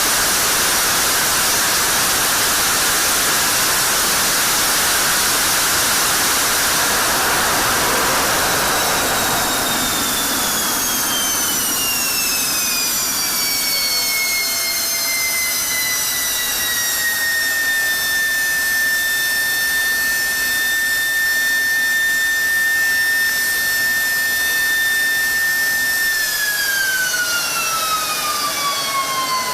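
F-16 jet engine on a ground test run: a loud, steady roar for about ten seconds, then a turbine whine that falls in pitch, holds steady, and falls again near the end as the engine spools down.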